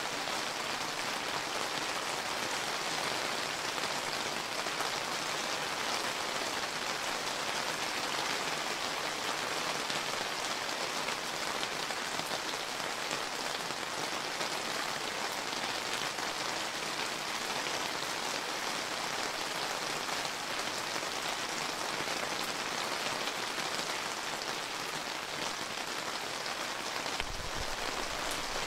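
Steady rain falling, an even hiss of many drops at a constant level. A faint low rumble comes in near the end.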